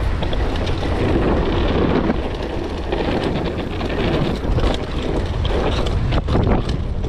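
Wind rushing over the camera microphone with the tyre noise and rattles of a mountain bike descending a wet, slippery dirt trail, as a steady loud rush with small knocks.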